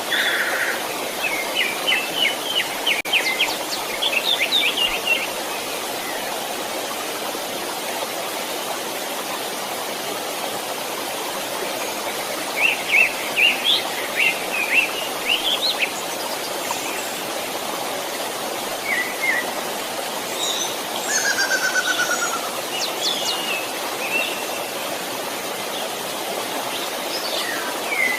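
Steady rush of a flowing stream, with small birds singing short chirping phrases over it in three bouts: near the start, about halfway through, and again later on.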